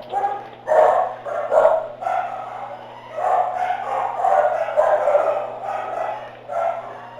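Dog barking over and over in short, irregular barks, over a steady low hum.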